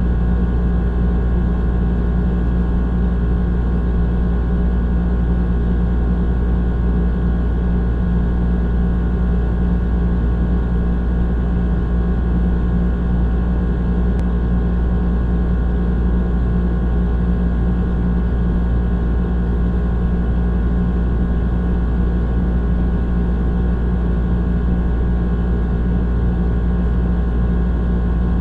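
Old air conditioner running with a steady, unchanging drone: a deep rumble with a hum and several higher steady tones over it.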